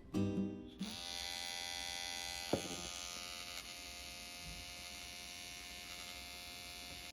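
Small battery-powered pet hair trimmer, for trimming the fur between a cat's paw pads, running with a steady buzz. A short click comes about two and a half seconds in.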